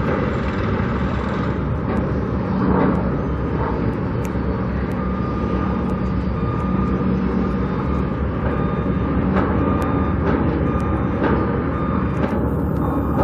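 Steady outdoor rumble of vehicles and construction machinery, with scattered faint clicks and a faint high steady tone coming in about five seconds in.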